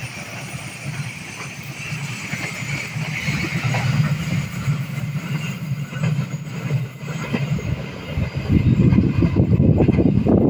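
Train approaching along the line: a steady low engine hum that grows louder, then a loud, uneven rumble of engine and wheels from about eight seconds in as it comes close.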